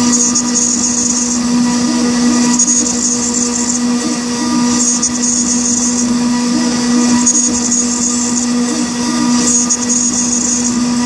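Machine spindle with a milling cutter machining the router's bridge leg plate: a steady motor hum, with a high cutting hiss that swells and fades about every two to two and a half seconds as the cutter moves through the work.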